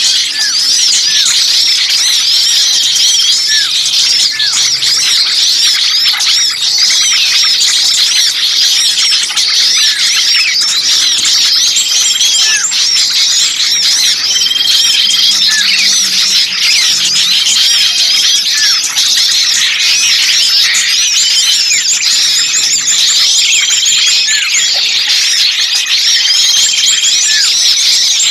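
A dense chorus of many small songbirds chattering and calling at once, high-pitched chirps overlapping without a break, with a short level whistle repeating every few seconds. It is a bird-lure recording of agitated small birds, played to draw other birds in.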